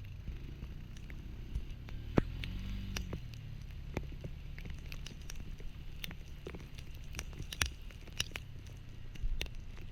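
Rain hitting in scattered sharp ticks and patter, over a low steady rumble.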